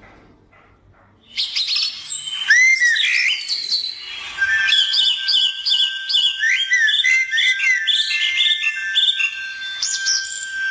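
A crowd of small birds chirping and calling together, many overlapping quick chirps and short gliding notes, starting about a second in after a near-quiet moment.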